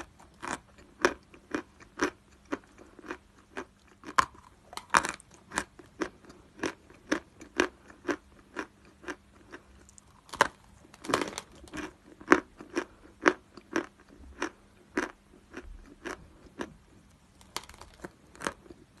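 Close-up crunching of hard chalk being bitten and chewed: a steady run of sharp crunches, about two a second, with a short pause now and then.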